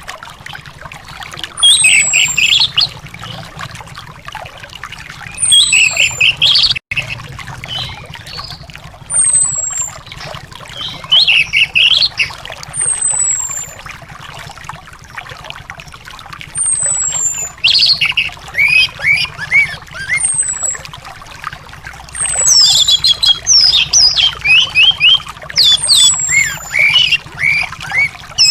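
Anis (ground thrush) singing, with a short phrase about every two seconds: a high, falling whistle over a quick warble. Near the end it turns into a faster, denser run of notes.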